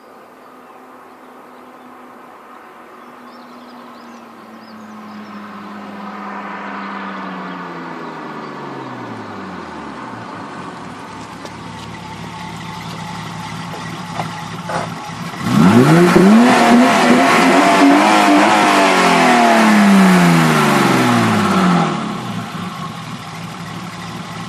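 BMW M20 straight-six engine through a custom exhaust: it runs steadily and the revs sink over a few seconds, then about 15 seconds in it is revved hard and gets much louder, the pitch climbing and falling back over several seconds before easing off near the end.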